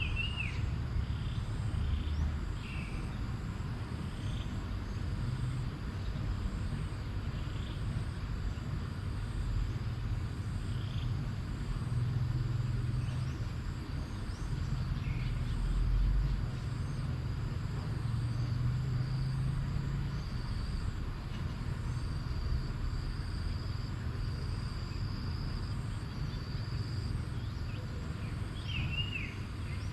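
Outdoor field recording of birds and insects over a steady low rumble. A bird gives short, falling chirps right at the start and again near the end, with scattered single calls between. Insects keep up a high, evenly pulsing drone, joined by a thin, higher whine for a while past the middle.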